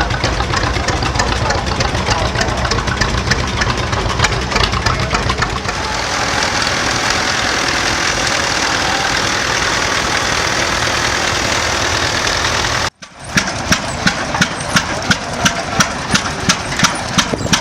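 Antique engines running. After an abrupt cut about 13 seconds in, an engine fires in regular sharp beats, about three a second.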